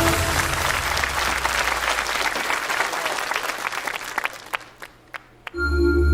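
Studio audience applauding, the clapping thinning out and dying away after about four and a half seconds. After a short pause, a song's intro of soft sustained tones begins near the end.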